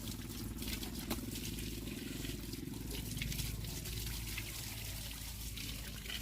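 A small engine running steadily, with water trickling.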